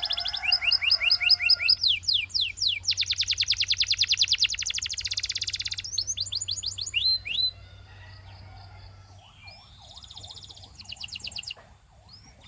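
Canary singing a run of fast trills, each a rapid series of sliding whistled notes, one trill following another at a different pitch and speed. About seven and a half seconds in the song drops much quieter, into softer, lower rolling notes and faint high trills.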